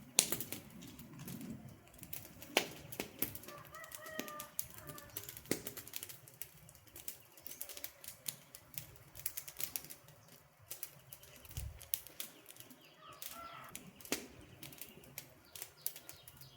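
Wood campfire crackling, with irregular sharp pops and snaps over a low rustle. A few short bird calls come in about four seconds in, again near thirteen seconds and at the end.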